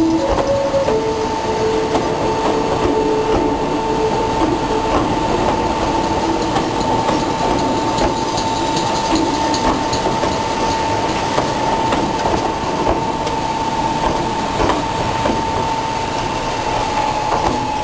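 Meitetsu 7000-series Panorama Car electric train rolling slowly past at close range, wheels clacking over rail joints under a steady rumble, with one steady high-pitched tone held throughout.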